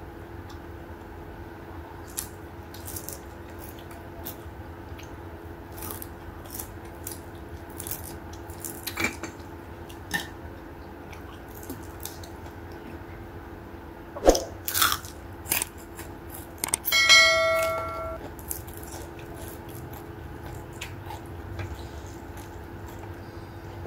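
Close-up eating sounds: chewing and wet mouth clicks and smacks scattered throughout as a woman eats fried fish and rice with her fingers, with a cluster of louder smacks and crunches about 14 seconds in. A short ringing tone lasting about a second sounds about two-thirds of the way through, over a steady low hum.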